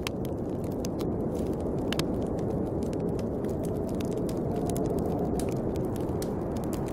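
Snowstorm wind blowing steadily with a deep rushing sound, with the sharp pops and crackles of a bonfire scattered over it.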